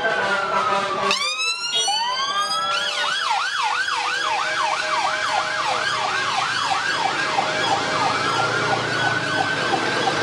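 Emergency vehicle sirens sounding together: a slow wail that falls and then sweeps up again about a second in. From about three seconds a fast yelp comes in at roughly two to three sweeps a second, with the wail rising again under it near the end.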